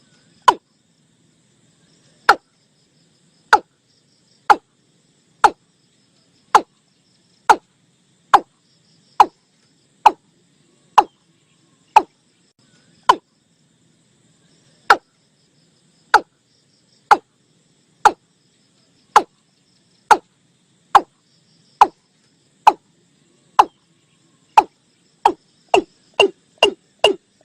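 Watercock calling: a long series of short hollow 'tum' notes, each falling in pitch, about one a second, quickening to about three a second near the end. It is a lure recording of the call, used to draw watercocks in.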